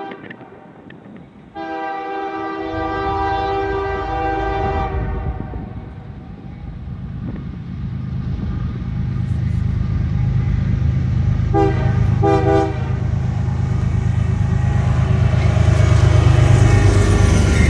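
Diesel locomotive approaching on its train: its multi-note horn sounds one long blast of about three seconds, then two short toots later on, while the engine and rail rumble grows steadily louder.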